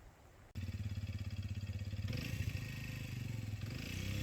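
CFMoto Papio minibike's small single-cylinder four-stroke engine running, coming in suddenly about half a second in. Its pitch shifts about two seconds in and bends again near the end as the engine revs.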